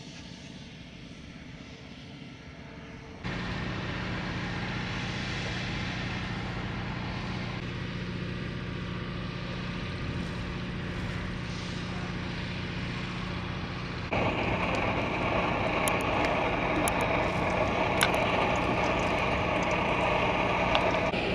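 A vehicle running with a steady engine hum and road noise. The sound steps abruptly louder about three seconds in and again about two-thirds of the way through, becoming brighter each time.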